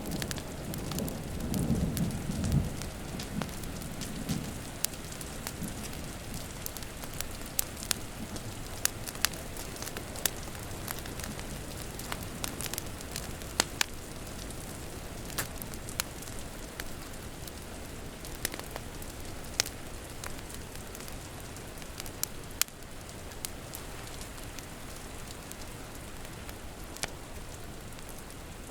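Wood fire crackling with scattered sharp pops over a steady hiss of rain. A low rumble of thunder dies away over the first few seconds.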